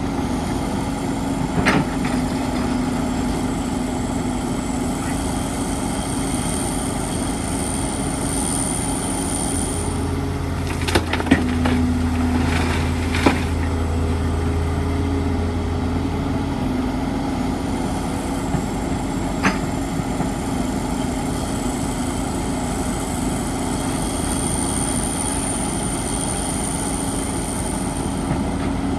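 Excavator's diesel engine running steadily, working harder for a few seconds in the middle, with scattered sharp clanks: one near the start, a cluster in the middle and one about two-thirds through. A faint high whine swells twice.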